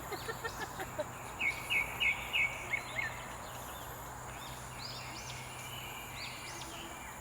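Wild birds calling: a quick run of about six sharp chirps a second or two in, then several looping, rising-and-falling whistled notes later on, over a steady high hiss.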